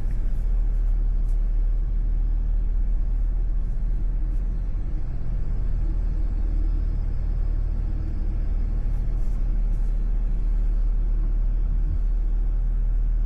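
Chevy Tahoe creeping along at low speed, its engine and drivetrain making a steady low rumble heard from inside the cabin.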